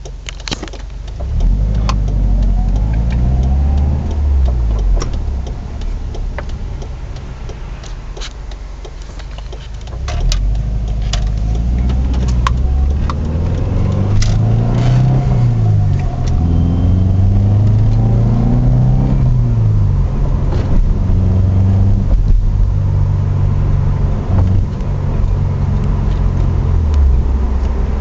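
Subaru Legacy's flat-four engine and drivetrain heard from a moving car, the engine note rising and falling repeatedly as it accelerates and eases off, with scattered short clicks.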